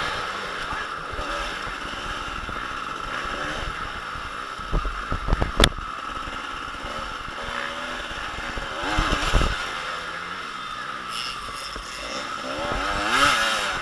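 Several motocross bikes running at a track, their engines revving up and down. A few sharp knocks come about five to six seconds in.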